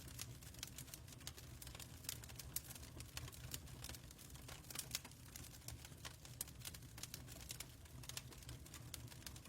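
Wood fire crackling: irregular sharp pops and snaps over a faint low rumble.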